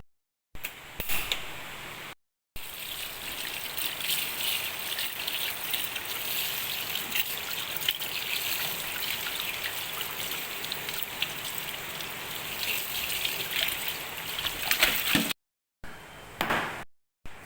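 Water running and splashing steadily, with sudden cuts to silence near the start and near the end.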